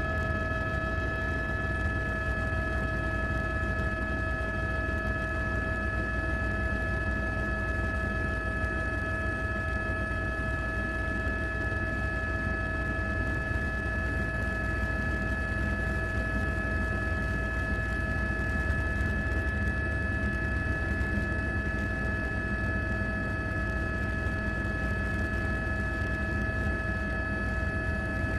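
Drone's propeller motors humming steadily, several whining tones held at an even pitch over a low rumble.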